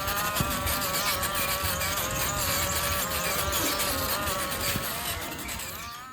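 A small motor running with a steady buzzing whine whose pitch wavers slightly, fading out near the end.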